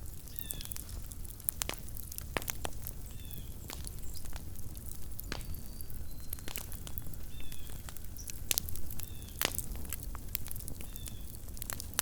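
Small wood campfire crackling, with irregular sharp pops and snaps. A bird repeats a short, high, falling call every few seconds.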